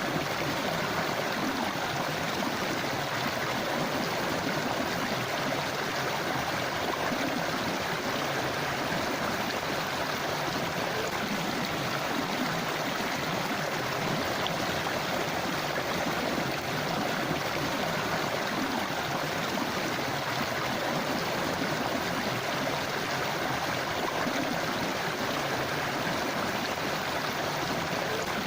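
River water rushing and gurgling over rocks, a steady, unbroken flow.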